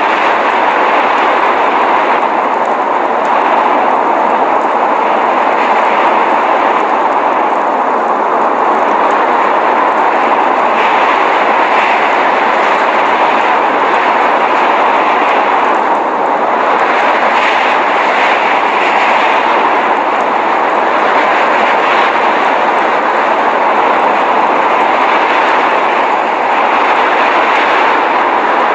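Steady rushing blizzard noise, an even roar centred in the mid range with no separate events, pauses or rhythm.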